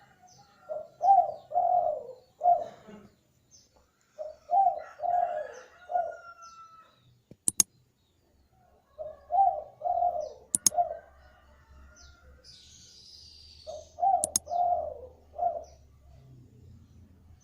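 Spotted dove cooing its song: four phrases of four or five low coos, spaced about four to five seconds apart, from a vocal (gacor) bird. Faint high chirps of small birds and three sharp clicks fall between the phrases.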